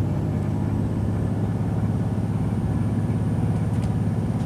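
Class 185 diesel multiple unit's underfloor Cummins diesel engine running with a steady low drone over the rumble of the train under way, heard from inside the carriage.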